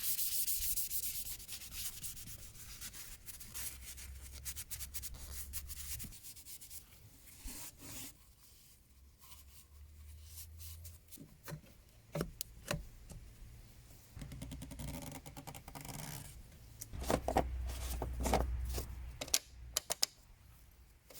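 Wiping and rubbing by hand, as after refuelling, with scattered clicks and knocks as things are handled.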